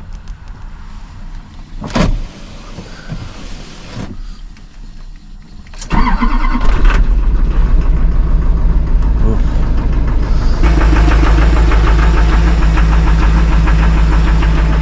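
Diesel plow truck cold-started after its glow plugs are cycled: a single click about two seconds in, then about six seconds in the engine cranks briefly, catches and runs loud and steady, a little louder again after about ten and a half seconds.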